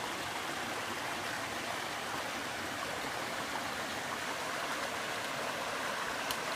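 Water rushing steadily down a waterfall and its stream.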